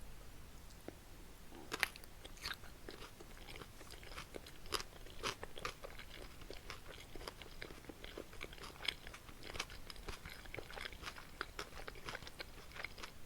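Close-miked chewing and biting of Korean boneless pork feet (jokbal) and spicy buckwheat noodles, with many irregular wet crunches and crackles.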